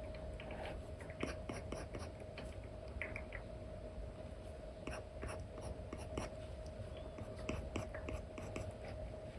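Apple Pencil tip with an Elecom nib tapping and scratching across an iPad's paper-like screen film in irregular short strokes and taps, over a steady faint hum.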